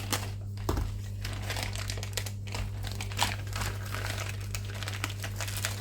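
Plastic packaging bag crinkling and rustling as it is handled, in many irregular crackles over a steady low hum.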